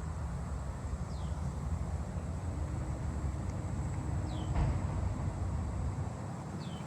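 Steady, high-pitched continuous trill of a trig, a tiny cricket, which the recordist takes for a Say's trig, over a louder low rumble of traffic and wind. Three short falling chirps sound high above it, about a second in, midway and near the end.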